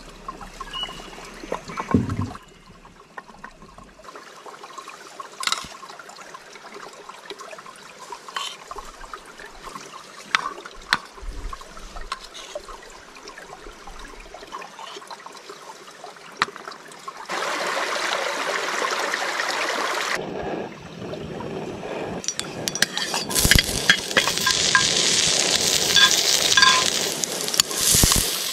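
Camp breakfast being cooked: scattered clinks and knocks of utensils and pans, a steady hiss for about three seconds, then food frying and sizzling loudly in a pan from about two-thirds of the way through, with the clicks of stirring over it.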